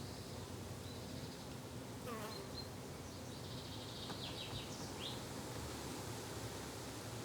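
Flying insects buzzing steadily in a low hum, like bees or flies, with a few short bird chirps partway through.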